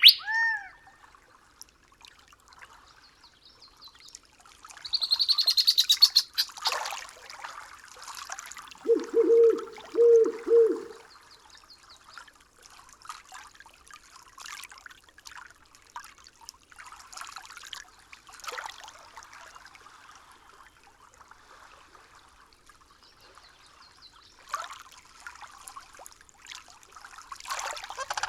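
Night-forest ambience of bird calls: a sweeping call at the start, a rapid high trill about five seconds in, then four short low calls in a row, over a faint trickle of water.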